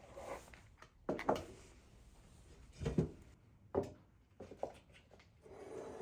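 Objects being handled in a kitchen: a series of separate knocks and clatters, five or six in all, about a second apart, with a rustling handling noise near the end.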